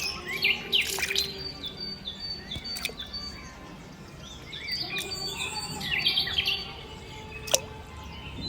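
Small birds chirping, many short repeated calls, with a few sharp clicks in between.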